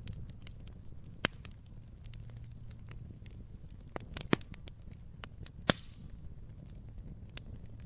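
Wood fire crackling: irregular sharp pops and snaps over a low steady rumble, with three louder pops, at about one, four and six seconds in.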